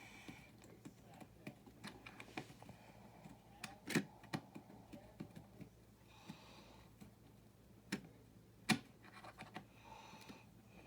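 Small plastic building-brick parts clicking and tapping as they are handled and fitted together, in scattered light clicks with two sharper snaps about four and nine seconds in.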